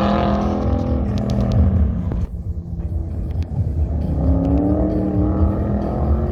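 Race truck engine under hard acceleration: it climbs in pitch, lifts off briefly a little after two seconds, then revs up again.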